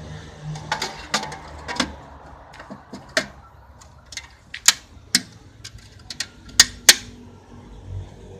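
Irregular sharp metallic clicks and knocks of small metal parts and tools being handled during an LPG conversion kit install, about a dozen, the loudest pair near the end.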